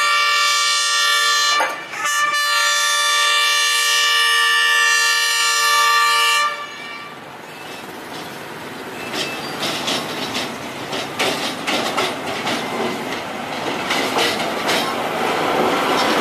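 Royal Railway passenger railcar sounding its horn in one long blast, briefly broken about two seconds in, then cutting off about six seconds in. Its wheels then clatter over the rail joints, growing louder as the railcar draws near and passes.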